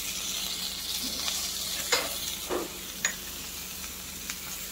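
Onion, tomato and curry leaves sizzling in hot oil in an iron kadai, with a few short clicks of a metal ladle against the pan about two to three seconds in.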